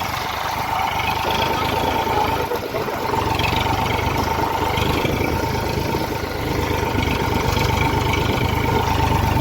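Eicher tractor's diesel engine running, its low rumble stronger from about three seconds in, with a steady thin whine alongside.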